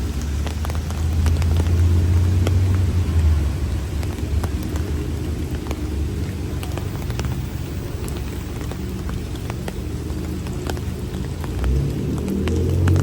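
Heavy rain falling, with many sharp drop ticks, over a low rumble that swells twice.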